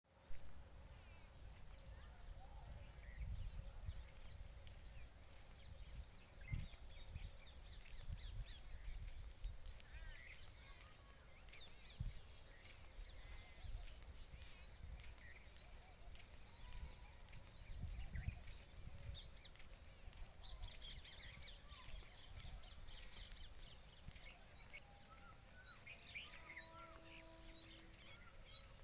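Many small birds chirping and calling, with uneven bursts of low rumble on the microphone. Near the end a steady tone with overtones sounds for about two seconds.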